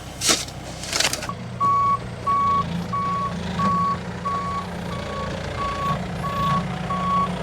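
A vehicle's reversing alarm beeping steadily, one even tone repeating a little under twice a second, over the low hum of its running engine. A brief scrape comes just before the beeping starts.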